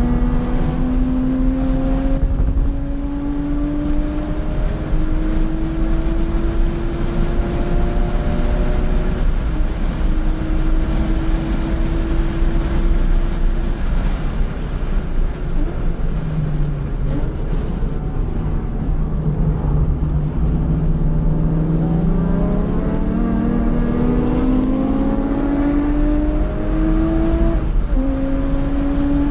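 Porsche 911 Carrera (997) flat-six under hard acceleration, heard from inside the cabin with road and wind noise. The engine note rises through the gears with upshifts about 2, 9 and 14 seconds in, falls away as the car slows from about 140 mph, then climbs again, with another shift near the end.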